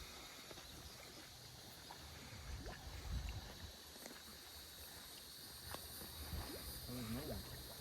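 Faint low rumble of wind and water around a small fishing boat, with a few light clicks and knocks of handling.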